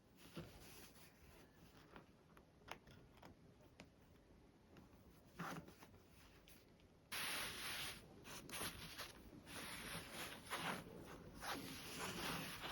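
Fabric and sewing tools being handled at a work table: scattered light clicks and taps, then about seven seconds in a sudden, louder run of close rasping, rustling strokes.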